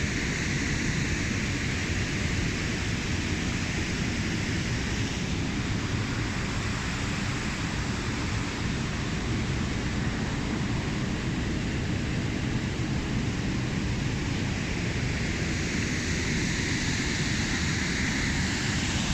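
Water rushing over a waterfall: a steady, unbroken rushing noise.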